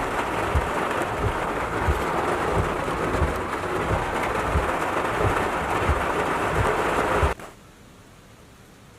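Storm noise of wind and rain, a loud steady rush with a regular low thump about one and a half times a second. It cuts off abruptly near the end.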